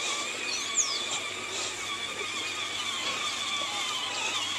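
Electric motor of a ride-on toy tractor whining steadily while it drives along, with a short high squeak about a second in.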